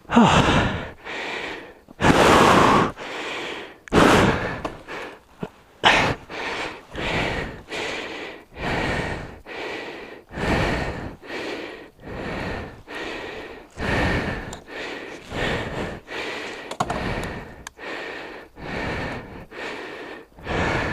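A person breathing hard, close to the microphone, with gasping breaths about once a second: out of breath after a motorcycle tip-over.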